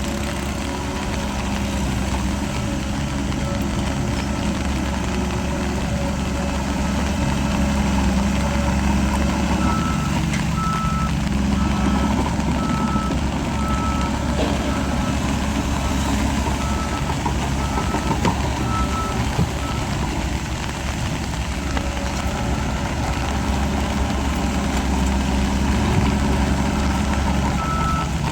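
Diesel engine of heavy earthmoving machinery running steadily, with a reversing alarm beeping about three times every two seconds, starting about a third of the way in, stopping, then starting again near the end.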